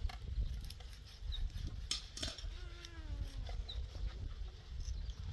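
Animal calls, a few short cries that fall in pitch, with a couple of sharp clicks, over a steady low rumble.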